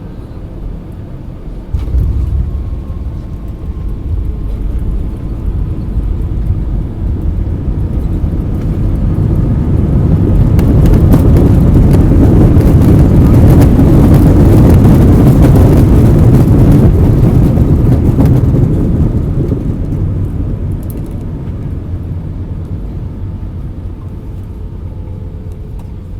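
Airbus A319 touching down about two seconds in, with a sudden jump in rumble from the wheels on the runway. Then the engines' reverse thrust builds to a loud roar and dies away as the airliner slows on the rollout.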